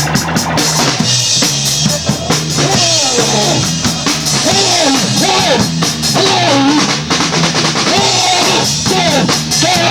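Live rock band playing loudly, with drum kit and bass holding a steady beat while a lead line bends up and down in pitch over it.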